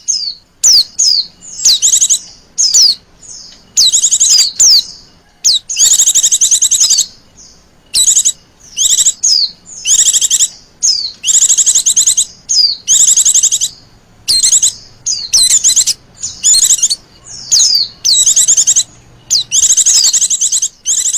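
Female white-eye (Zosterops) calling: a long run of high, fast-trilled chirping phrases, each from a fraction of a second to about a second and a half long, with short pauses between them.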